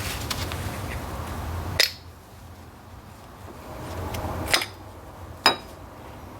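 Three sharp metallic clinks, spread over the few seconds, the later two with a short bright ring, over a low steady rumble: hand tools or metal parts knocking together during bench work.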